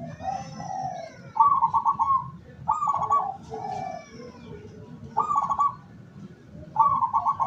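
Zebra dove (perkutut) cooing: about six short, rapidly pulsed, rolling coo phrases, spaced a second or so apart.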